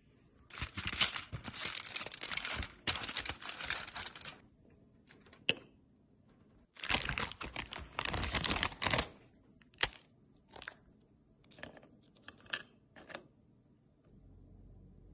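Crisp food being crunched: two long spells of dense crunching, then a few short sharp crackles.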